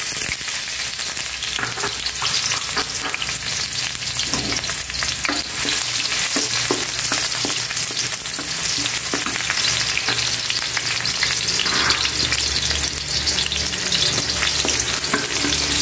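Sliced shallots and garlic sizzling in hot oil in a wok, the sizzle setting in as they are dropped in. From a few seconds in, a wooden spatula stirs them with short scrapes and taps against the pan.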